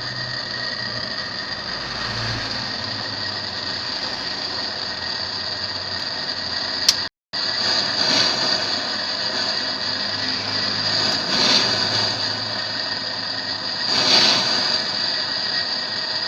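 Steady mechanical hum with a hiss and a high whine running through it, broken once by a sudden, brief cut to silence about seven seconds in.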